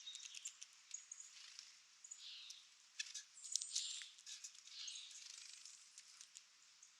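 Faint outdoor sounds: a few brief high bird chirps among scattered light clicks and soft rustles.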